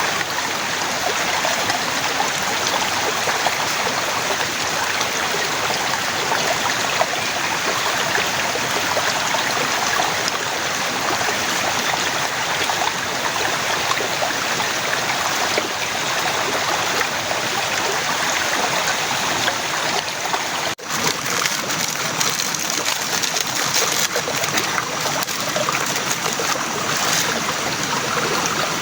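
Heavy rain falling, a steady, dense hiss. It drops out briefly about 21 s in; after that, separate drops striking close by stand out more.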